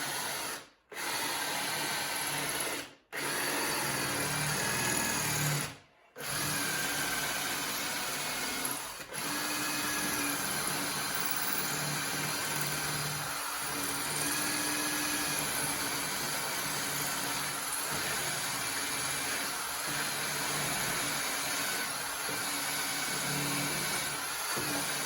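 A power tool running steadily, its pitch shifting slightly now and then, cut off briefly three times in the first six seconds.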